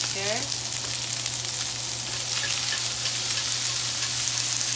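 Shrimp and onion sizzling in hot oil in a wok and a frying pan, a steady hiss, with the shrimp turned over with tongs. The sizzle is the sign that the pan is hot enough.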